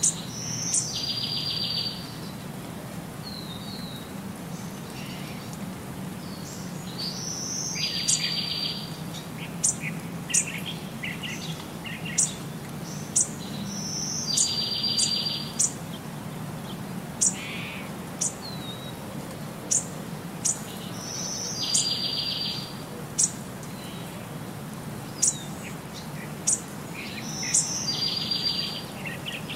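Birdsong on a loop: the same phrase of sharp high chirps, a short rising note and a brief buzzy trill comes back about every seven seconds, over a low steady hum.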